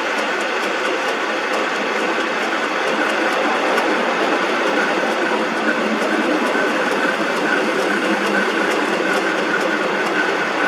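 Metal lathe running steadily, with a faint steady high tone over the machine noise.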